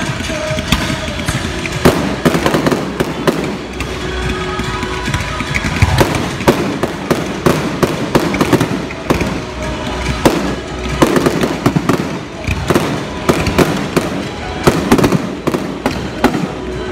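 Fireworks display: many shell bursts and crackling reports in quick succession, some in rapid clusters, over music playing along with the show.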